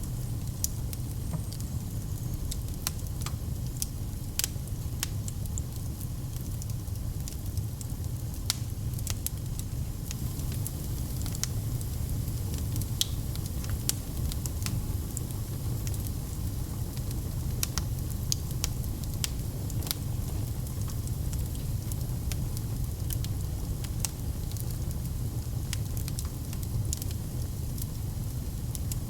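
Wood fire crackling, with frequent sharp, irregular pops and snaps over a steady low rumble of the burning flames.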